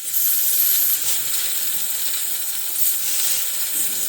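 Compressed air hissing steadily as it is fed into a 6.0 Powerstroke diesel's high-pressure oil rail through the ICP sensor port and leaks out inside the engine, with a thin high whistle in the first second. The leak is the sign of a failed standpipe O-ring, which the owner is pretty sure of.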